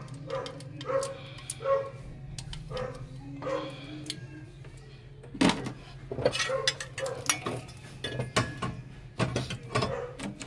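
A dog barking repeatedly, over a steady low hum, with scattered sharp clicks and knocks.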